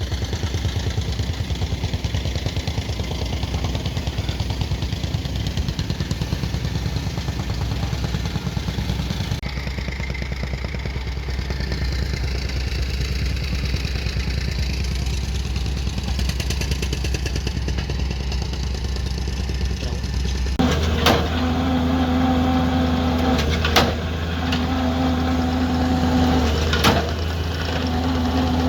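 Excavator diesel engine running steadily. In the last part a pitched whine sounds three times, each a second or two long, with a few sharp knocks.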